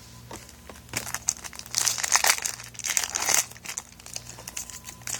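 Foil booster-pack wrapper crinkling as it is handled and opened, a dense run of crackly rustles starting about a second in.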